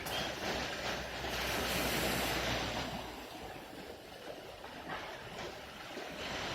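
Baltic Sea waves washing on the shore, a broad rushing hiss that swells and eases, with wind rumbling on the microphone until about halfway through.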